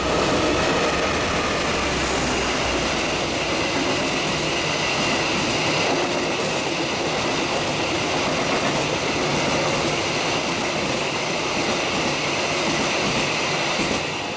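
Passenger train passing close at speed, led by a diesel-electric locomotive. The locomotive's engine rumble comes first, then the steady wheel-on-rail noise of the coaches, which drops away near the end.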